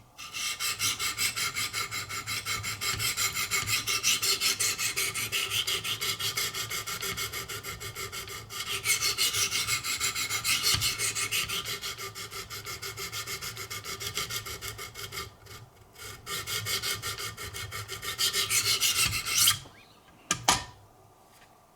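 Wicked Edge diamond sharpening stone scraping along a knife's edge in quick back-and-forth strokes, several a second, with a short pause partway through. The strokes stop near the end and a single click follows.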